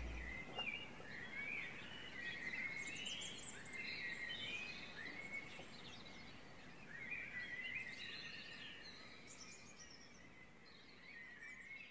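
Small birds chirping and twittering over a faint background hiss, many short calls overlapping, slowly fading out toward the end. A low note from the closing music stops just after the start.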